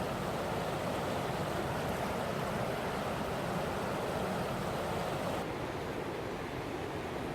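Steady rush of fast-flowing water from a wide, low waterfall and its stream. About five seconds in, the sound turns a little duller and quieter.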